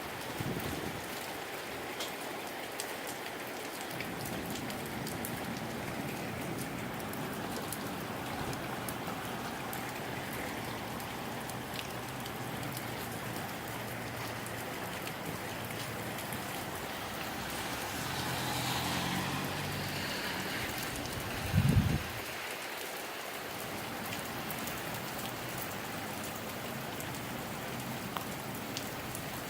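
Moderate rain falling steadily in gusty wind, with a brief low thump about two-thirds of the way through.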